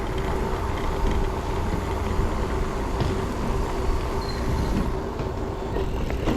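Steady low wind rumble on the microphone and tyre noise from a bicycle being ridden, with a faint steady hum underneath.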